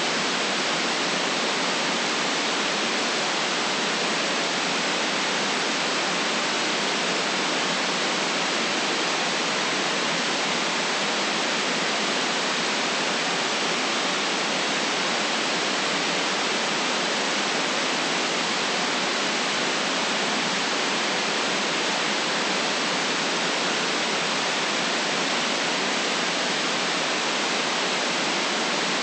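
Steady white noise: an even, unchanging hiss with little deep bass or very high treble.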